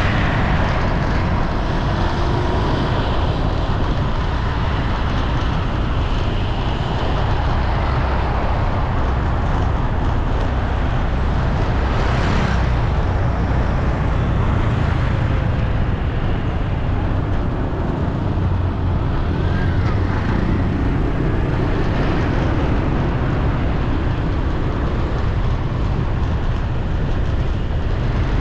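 Steady, loud city street traffic noise, with vehicles passing continuously.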